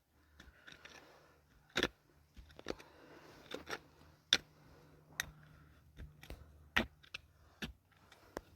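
Irregular sharp clicks and knocks, about a dozen, the loudest a little after four seconds in, over a faint low hum.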